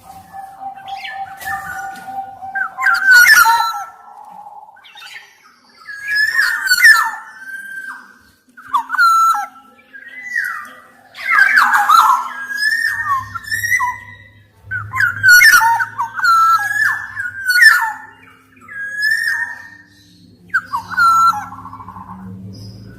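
Black-naped oriole (kepodang emas) singing short, fluting whistled phrases over and over, with a few harsher notes mixed in. A low hum comes in about halfway through.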